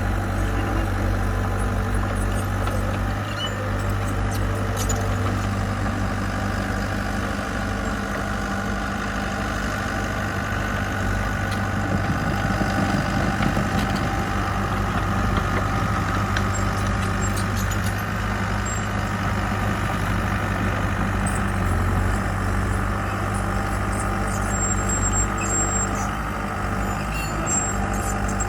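Diesel engine of heavy construction machinery running steadily, with an even, unbroken low hum.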